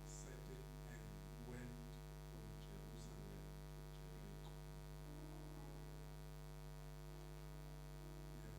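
Steady electrical mains hum with a few faint, scattered small sounds over it.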